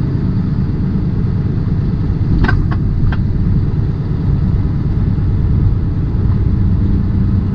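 Semi-truck's engine and road rumble heard from inside the cab while driving, steady and low. Three short clicks come close together about two and a half seconds in.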